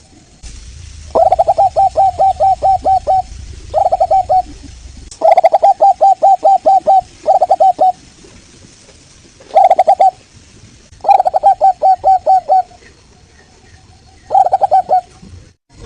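Zebra dove (local perkutut) cooing: about seven phrases of quick, evenly repeated staccato coo notes, separated by short pauses. Faint high chirping runs underneath.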